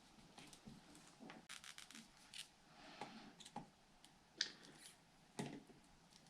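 Faint, scattered small clicks and light scraping of small parts being handled: battery wire, heat-shrink tubing and an XT-90 connector being worked by hand. The two sharpest clicks come about four and a half and five and a half seconds in.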